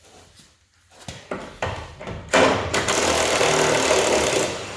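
A few knocks, then a power tool runs loudly in a rapid rattle for about two seconds: typical of a pneumatic impact wrench on a subframe bolt.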